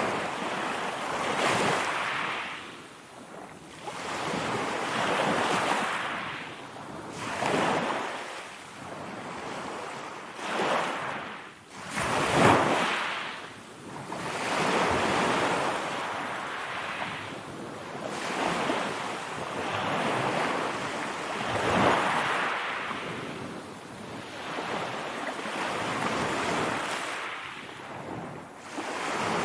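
Ocean waves breaking and washing ashore, the surf noise swelling and fading every couple of seconds, with one stronger wave about twelve seconds in.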